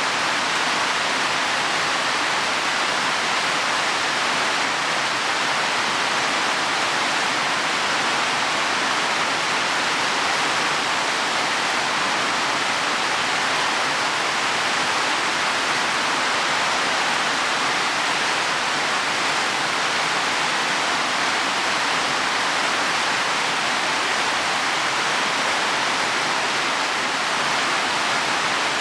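Heavy rain falling on leaves and soil, a steady dense hiss with no separate drops standing out.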